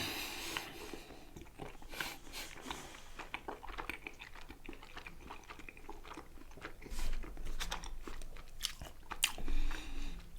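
Close-miked chewing and biting of food, with many small wet mouth clicks and crunches, a little louder twice in the second half.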